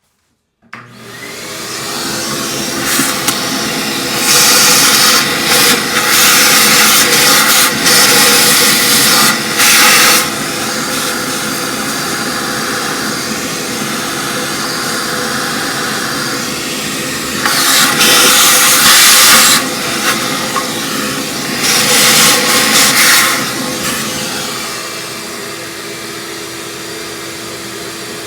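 A vacuum cleaner switches on about a second in and runs steadily with a constant hum, sucking up the crud brushed loose around a toilet's bolt hole. It has three stretches of louder rushing and eases a little near the end.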